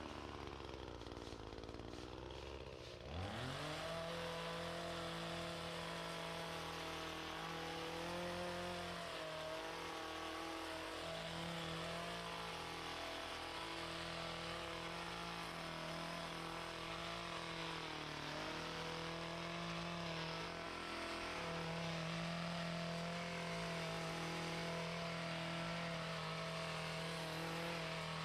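Small gas engine of lawn equipment running: it sits at low speed for the first few seconds, is throttled up sharply about three seconds in, then holds at high speed with slight wavers in pitch.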